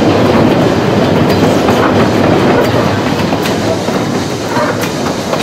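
Narrow-gauge steam train running, heard from an open carriage: wheels clacking on the rails and the wooden carriages rattling, with occasional sharp clicks.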